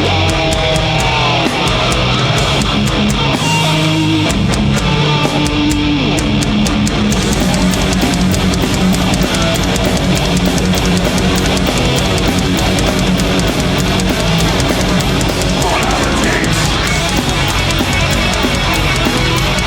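Heavy metal band playing live: distorted electric guitar riffs over bass and a drum kit, with no vocals. About seven seconds in the drumming picks up into a fast, dense beat.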